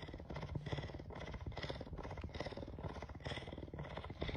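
A cat purring close up, a steady fine rumble of rapid pulses.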